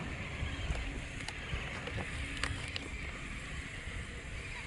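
Wind buffeting the microphone, a low uneven rumble, with a faint high-pitched background haze and a few light clicks.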